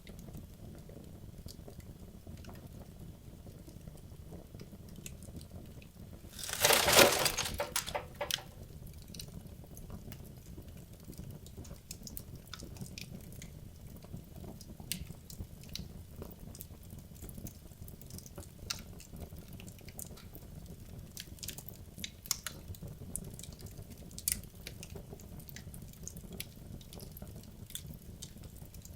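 Wood logs burning in a fireplace: a low steady fire noise with scattered sharp crackles and pops. About six seconds in comes a much louder burst of crackling and rushing noise lasting about two seconds.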